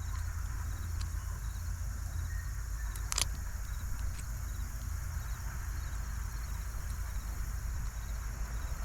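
Insects chirping steadily over a low, steady rumble, with a sharp click about three seconds in.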